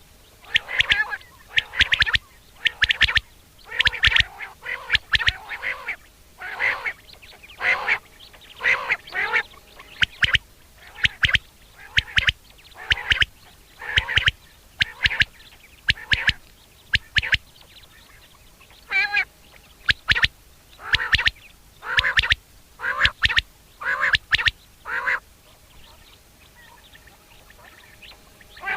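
Common quail (Coturnix coturnix) calling over and over: short sharp calls in quick groups, the mating call, falling silent a few seconds before the end.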